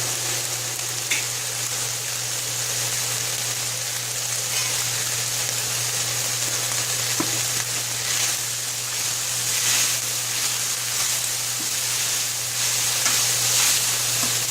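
Ground turkey sizzling steadily in olive oil in a frying pan as its water cooks off and the meat browns, with a few light clicks of a stirring utensil against the pan.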